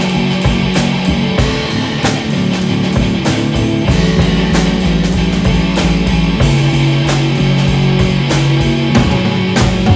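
Instrumental rock jam: drum kit keeping a steady beat, with sustained bass notes shifting every second or two under electric guitars.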